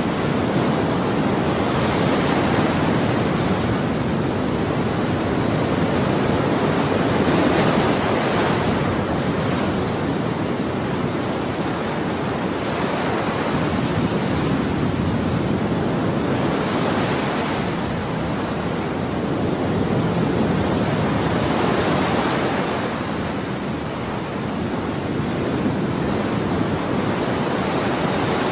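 Ocean waves breaking on a shore: a continuous wash of surf with waves surging and hissing every few seconds.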